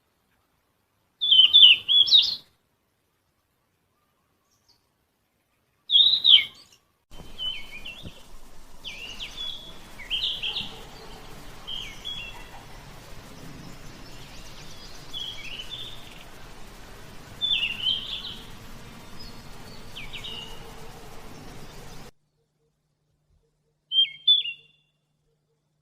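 Yellow-rumped flycatcher giving short, high chirping call notes, one every second or so in a run, with a few isolated notes before and after.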